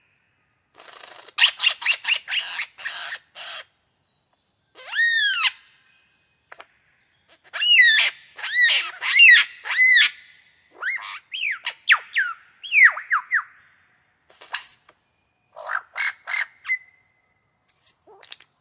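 A mimicking bird running through a varied series of calls in separate phrases: quick strings of sharp notes, a run of arching whistled notes with overtones, and several falling whistles, with short pauses between phrases.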